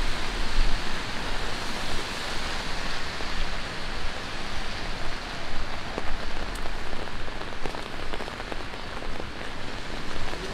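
Steady rain falling on city pavement, with a few sharper drop clicks standing out now and then.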